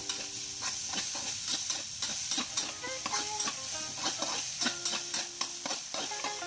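Diced chayote sizzling as it fries in oil in an aluminium wok, with a metal spatula stirring and scraping against the pan in quick repeated strokes over a steady hiss.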